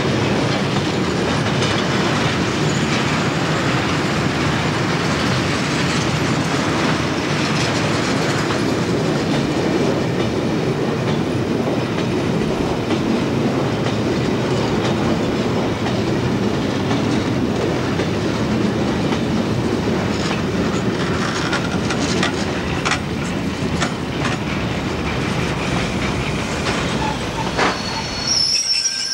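A freight train of tank wagons rolling past at close range: a steady rumble of steel wheels on the rails, with rapid clicks as the wheels cross rail joints. The rumble drops away sharply near the end as the last wagon passes.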